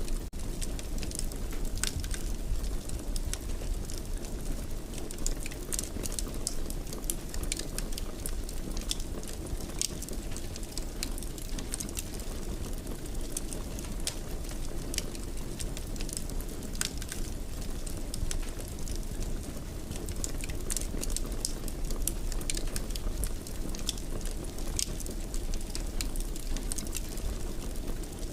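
Fire crackling in a fireplace: a steady low rumble of flames with frequent irregular sharp pops and snaps.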